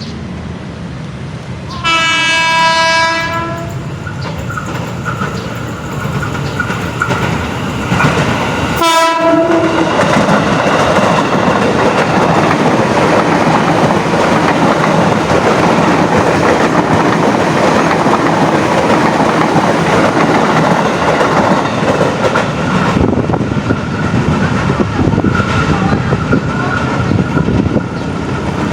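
Train horn: one blast of about a second, then a short second blast some six seconds later. The train then passes close by, loud and steady.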